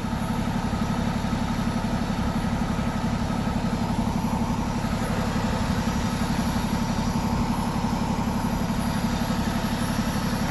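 A vehicle engine idling steadily with an even low drone.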